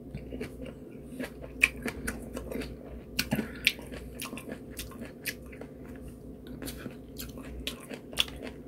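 Close-miked chewing of peeled lemon: irregular soft wet clicks and smacks from the mouth, a few a second.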